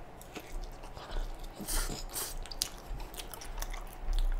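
A person biting into a slice of pizza and chewing it close to the microphone, with crunching of crust and many small mouth clicks, busiest about two seconds in.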